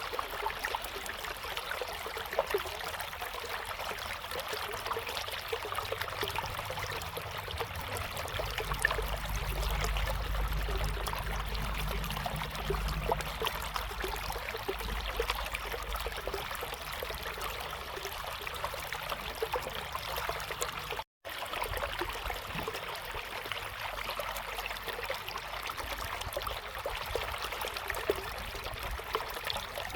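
A river flowing, a steady babble of water with fine trickling ticks. A low rumble swells under it for several seconds in the middle, and the sound cuts out for an instant about two-thirds of the way through.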